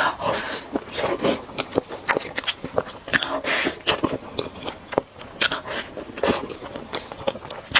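Close-miked eating sounds of someone eating spicy noodles: chewing and biting, with many quick wet mouth clicks and short smacking noises.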